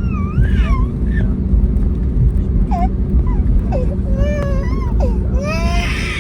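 Steady low cabin rumble and hum of an Airbus A321neo airliner, with a small child's short whimpering cries and squeals rising and falling over it, loudest near the end.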